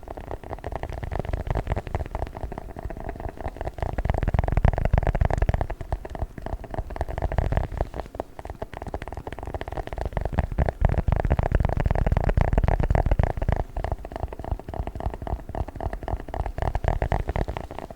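A "chocolate book" ASMR trigger object being handled, squeezed and rubbed right at the microphone, giving dense, fast crackling and scratching over a deep close-mic rumble that swells and eases.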